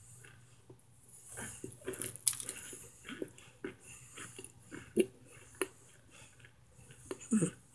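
Soft, irregular crunching and chewing of dry cornstarch chunks close to the microphone, with a brief falling whine near the end.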